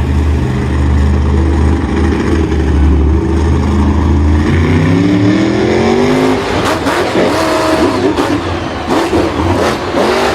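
Vehicle engine running at a low steady pitch, then revving up with a rising whine about halfway through, followed by a few sharp knocks.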